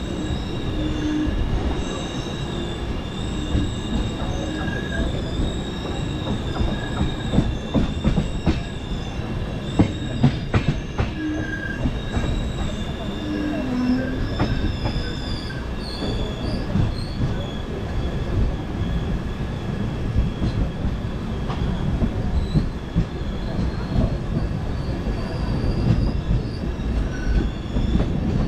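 Express passenger train running on rails: a steady rumble of wheels on track with high, sustained wheel squeal. There is a cluster of sharp clicks from rail joints about a third of the way through.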